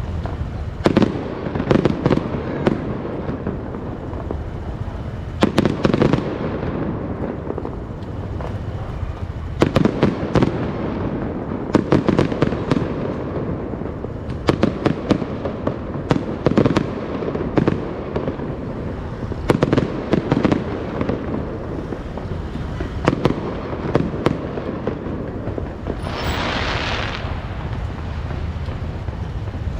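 Fireworks going off in repeated clusters of sharp bangs every couple of seconds over a steady background rumble, with a dense hissing rush near the end.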